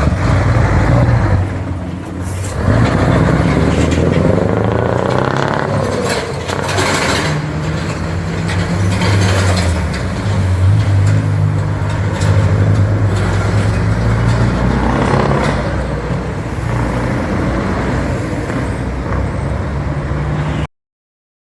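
Scania 144L truck's V8 diesel engine running, its pitch dipping and rising as it is revved or driven, with a few short bursts of hiss. The sound cuts off abruptly near the end.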